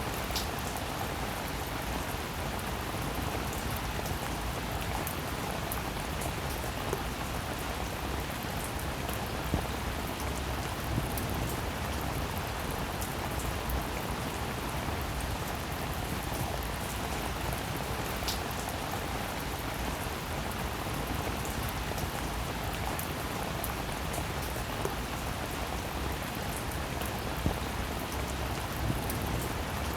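Steady rain falling, a continuous even hiss with scattered individual drops ticking sharply on a surface now and then.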